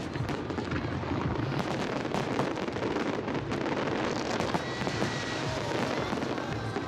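A fireworks display in full barrage: many shell bursts and crackles in quick succession over a continuous rumble.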